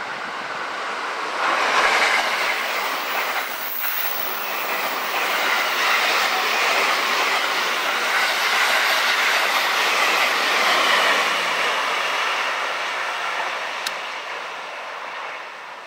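An electric limited express train passing at speed, its wheels rolling over the rails with a rushing noise and some clickety-clack. The noise swells about a second in, stays loud for about ten seconds, then fades as the train moves off.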